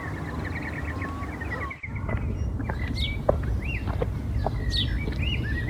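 Several birds calling and singing: a quick run of chirps at the start, then assorted whistled, arched and downward-sliding calls. A steady low rumble runs underneath.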